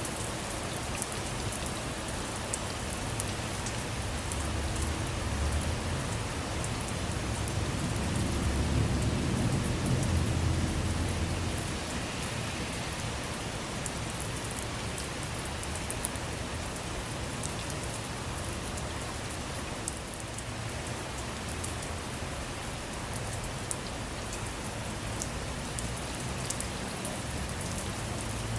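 Steady heavy rain with sharp drop ticks on a hard surface. A low rumble of distant thunder swells about a third of the way in and fades again.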